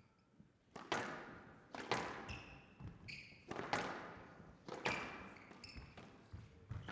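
Squash rally: the ball struck by rackets and hitting the court walls about once a second, with court shoes squeaking briefly on the floor between shots.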